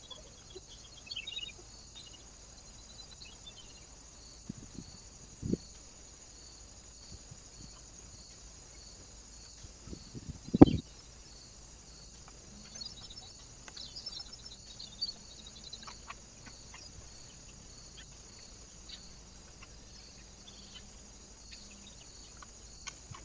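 Small birds at a feeder: a few faint chirps near the start and scattered knocks, the loudest about ten seconds in, over a steady high hiss.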